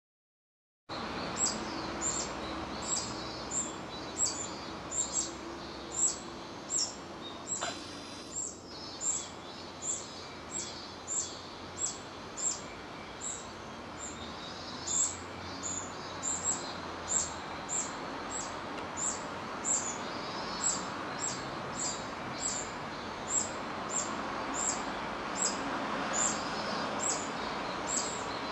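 Brown-eared bulbul chicks begging with a long run of short, thin, high calls, each dipping slightly in pitch, about three every two seconds, over a steady background hiss. A single sharp knock sounds about eight seconds in.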